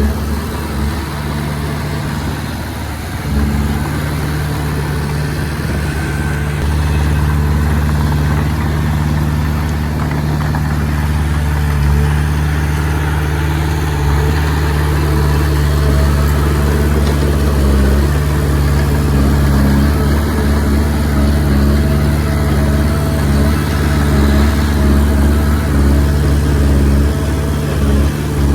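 Diesel engine of a Komatsu D20P crawler bulldozer running steadily while working, getting louder about three seconds in and then holding steady.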